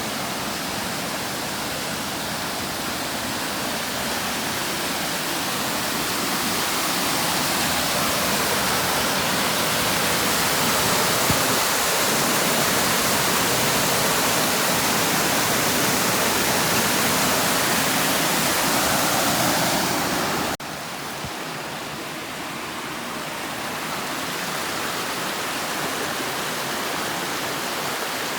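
Steady rush of fast-flowing water over rocks, a continuous hiss with no breaks. About two-thirds of the way through it cuts abruptly to a slightly quieter, duller rush.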